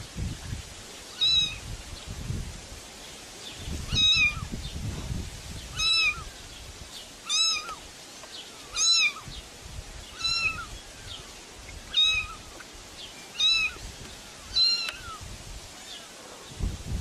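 A cat meowing over and over: about nine short, high-pitched meows, one roughly every second and a half, with low rumbling noise between them.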